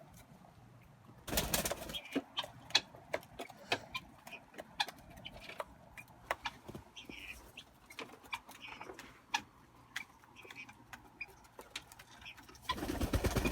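Pigeons and doves cooing, with small chirps and many sharp clicks and taps. Two short rushing bursts come about a second in and again near the end.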